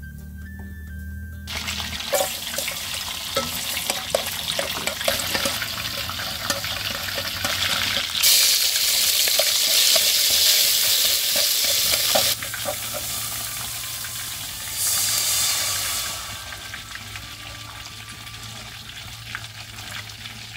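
Garlic and small shrimp frying in hot oil in an aluminium pot, sizzling while being stirred with chopsticks that tap against the pot. The sizzle starts about a second and a half in, swells much louder for about four seconds past the middle and briefly again a little later, then settles to a quieter hiss.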